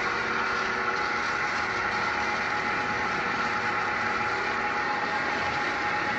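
An engine running steadily at idle, with a constant hiss over it.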